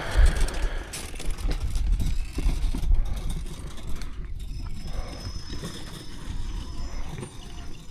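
Traxxas Slash RC truck driving on three wheels, its electric motor whining high from about halfway in, over a low rumble and scattered knocks of the truck running over the ground.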